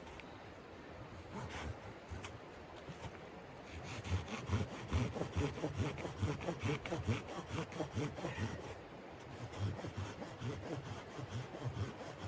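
Hand saw cutting wood in quick, rhythmic back-and-forth strokes. The strokes start a few seconds in, stop briefly about two-thirds of the way through, then resume.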